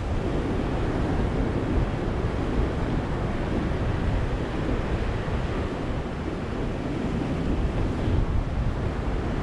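Ocean surf: a steady wash of waves on a beach, with no single break standing out.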